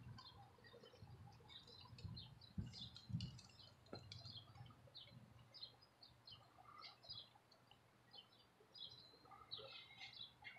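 Faint chirping of small birds, many short high calls scattered throughout, with a few soft low thumps about two to three seconds in.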